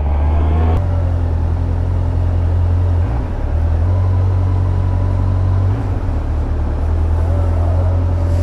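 Yamaha FZS1000's inline-four engine running steadily at low revs, with brief dips about three and six seconds in.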